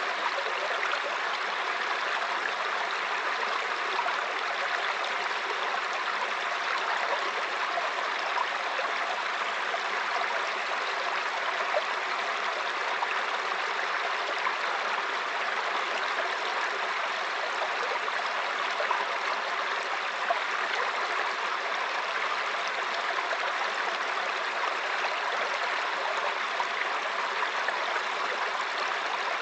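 Mountain stream flowing over rocks: a steady babbling rush of water with small splashes and gurgles.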